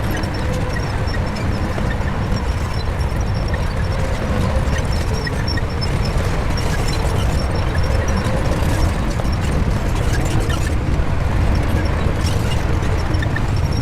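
Shantui crawler bulldozer's diesel engine running steadily under load as it works.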